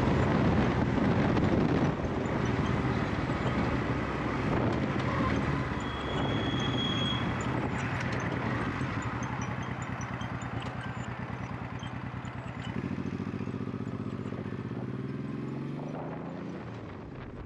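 1998 Honda VT1100 Shadow Ace's V-twin engine running, getting steadily quieter as the bike eases off. It settles to low, steady revs in the last few seconds.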